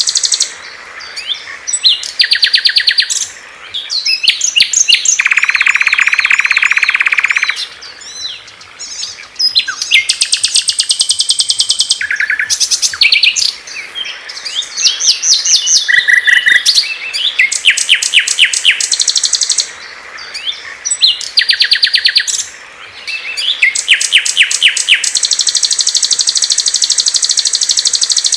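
Small songbirds singing in quick succession: a string of different high, rapid trills and chirping phrases, one after another, with a long high buzzy trill at the start and again near the end.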